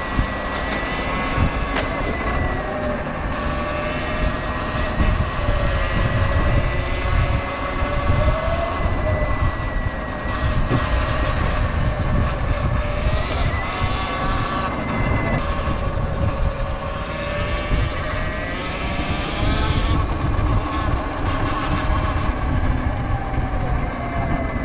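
Sur Ron electric dirt bike riding, its motor and drivetrain giving a steady whine whose pitch drifts up and down with speed, over heavy wind rumble on the microphone.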